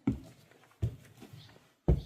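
Footsteps: three heavy thuds about a second apart in a small room.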